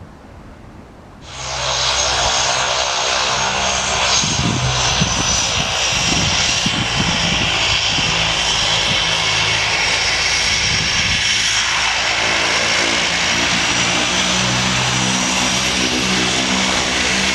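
Turbine aircraft engine running close by, a steady high whine over a dense low throb, starting suddenly about a second in.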